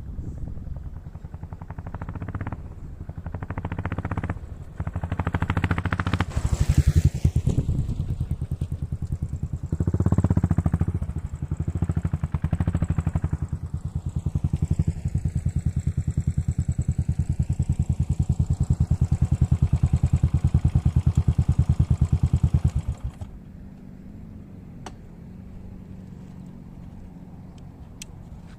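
Royal Enfield Continental GT 535's single-cylinder engine through an aftermarket exhaust, blipped up several times and then held at higher revs for about ten seconds. It drops back to a steady idle about 23 seconds in.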